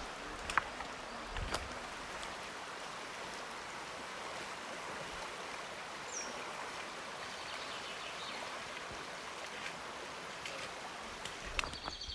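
Mountain river rushing steadily over rocks, a continuous even water noise, with a few light knocks near the start and one brief high chirp about halfway through.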